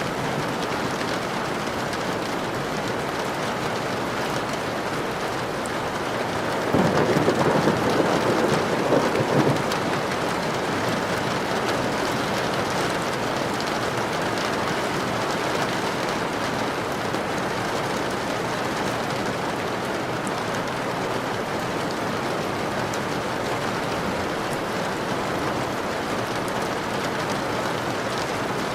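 Steady rain falling, with a roll of thunder about seven seconds in that swells louder for two to three seconds and fades back into the rain.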